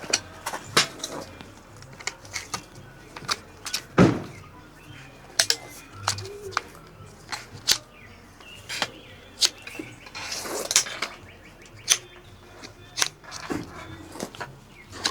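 Irregular sharp clicks and knocks, about one or two a second, the loudest about four seconds in, over a faint steady hiss.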